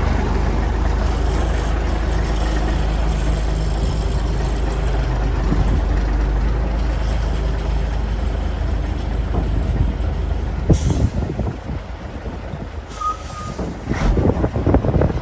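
MAN 33.361 8x4 tipper truck's diesel engine running steadily. About two-thirds of the way through, two short hisses of air follow, like an air-brake release, and the engine sound turns uneven and less steady as the truck moves off.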